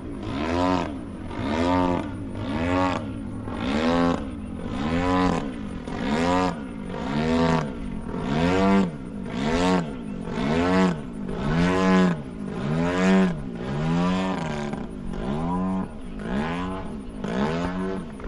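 Radio-controlled model airplane engine running in flight, its pitch swinging up and down about once a second in a steady repeating cycle.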